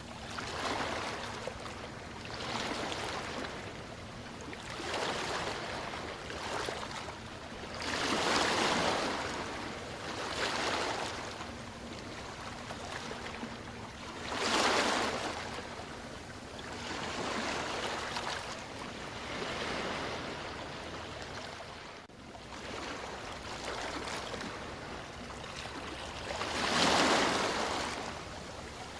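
Sea waves washing in and receding, a steady rush of surf that swells every few seconds, with the biggest swells about a quarter, half and near the end of the way through.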